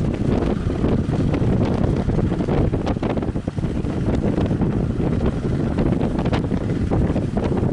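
Strong wind buffeting the microphone: a loud, steady rumble of wind noise with constant gusty crackle.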